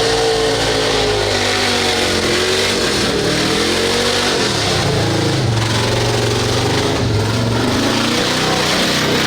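Mud truck engine revving hard, its pitch climbing and dropping again and again over a rushing noise.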